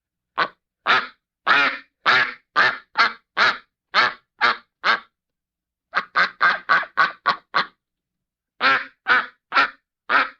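A run of short, separate bird calls, about two a second, in three groups with pauses of about a second between them. The middle group is faster than the others.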